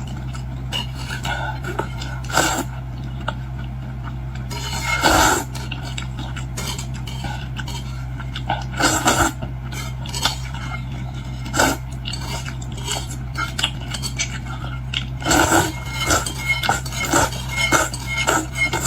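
Scattered clinks and cracks of a boiled shrimp and lobster meal being eaten: shells and utensils against dishes, in clusters that grow busier near the end, over a steady low hum.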